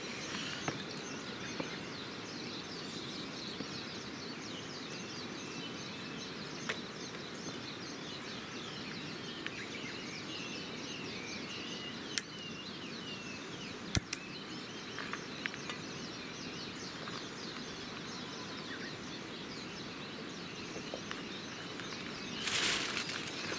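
Dawn outdoor ambience: a steady hiss of background noise with many small birds chirping, a few sharp clicks, and a burst of loud rustling near the end.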